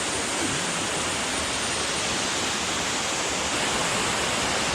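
Water of a tall forest waterfall falling and rushing, a steady, even noise with no change in level.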